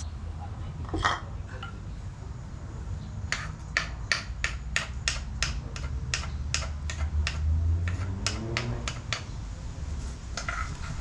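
A run of about twenty sharp clicks or knocks at a steady pace of about three a second, over a low hum.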